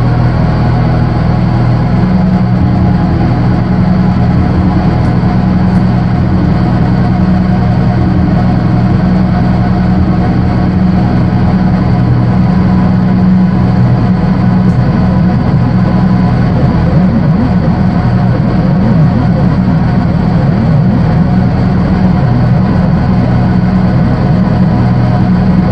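Loud, continuous electronic drone from analogue synthesizers: a thick low hum with many layered tones above it and a haze of hiss on top. Past the middle the low tones start to wobble and beat against each other.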